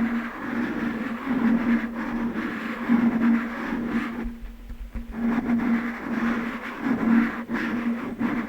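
Fingers tapping and working over glass objects close to the microphone: a continuous textured sound with a few light taps and a steady low hum that swells and fades, dropping away briefly a little past the middle.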